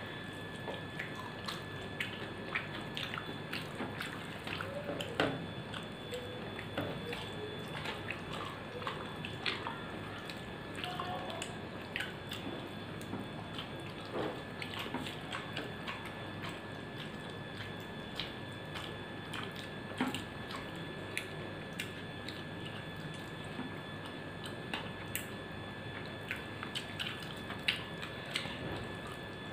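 Close-up eating sounds of a person eating rice, dal and small fried fish with her fingers: irregular small wet clicks and smacks of chewing, over a faint steady hiss.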